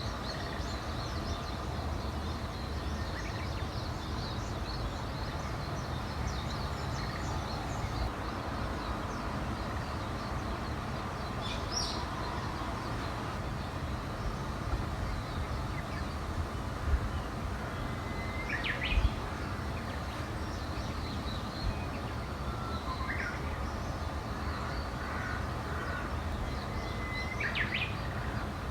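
Wild birds singing: several times a bird gives a held whistle that breaks into a quick flourish, over faint high chirping from other birds. Under it runs a steady low rumble of background noise, with two brief low thumps past the middle.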